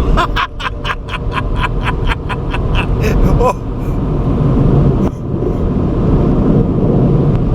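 Car wash air-dryer blowers running, heard from inside the car as a loud, steady rumble. For the first three and a half seconds a fast, even pulsing of about five beats a second rides over it, ending in a short rising tone.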